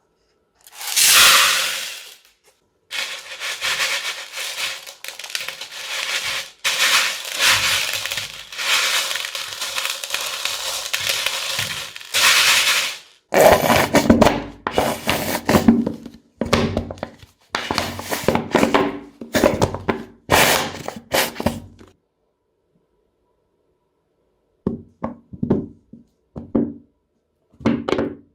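Crunchy slime being squeezed and pressed by hand. It crackles and pops densely for about ten seconds, then gives a series of separate crunchy presses. After a short pause, a quick run of short pokes comes near the end.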